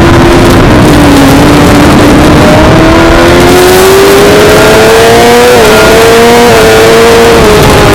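Suzuki GSX-R600 inline-four engine revving hard under acceleration. Its pitch climbs steadily with small dips, then starts to fall near the end, heard onboard over heavy wind rush.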